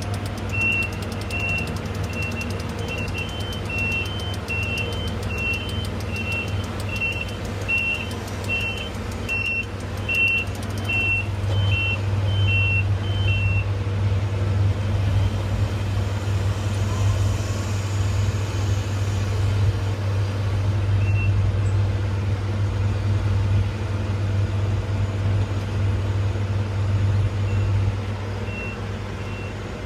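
Heavy diesel engine running steadily, growing louder about a third of the way through, with two backup alarms at slightly different pitches beeping about once a second each. The alarms stop about halfway through and return briefly near the end.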